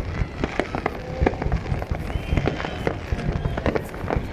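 Fireworks display going off nonstop: a dense, irregular run of sharp bangs and crackles. A thin high steady tone comes in about halfway through.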